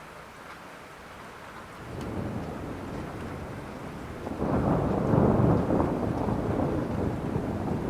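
Steady rain with a roll of thunder: a low rumble builds about two seconds in, swells sharply about halfway through, and keeps rolling.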